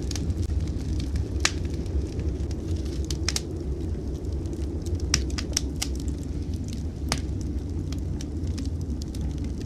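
Wood fire crackling in a fireplace: scattered sharp pops and snaps, several in quick succession about halfway through, over a steady low rumble.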